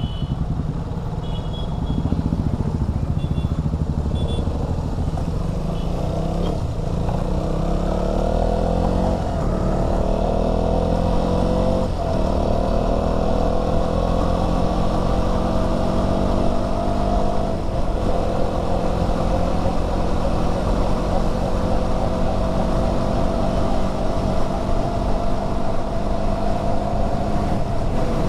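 KTM Duke 200's single-cylinder engine pulling on the highway, its pitch climbing and then dropping back at each of several upshifts, settling into a slowly rising cruise, over steady wind and road noise.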